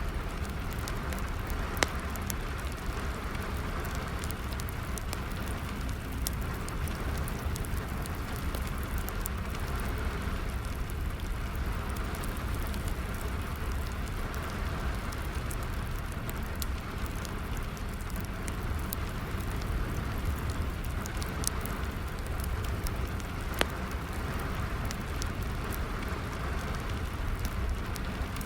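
Steady rainfall mixed with a wood fire crackling and popping, with two sharper pops about two seconds in and near the end.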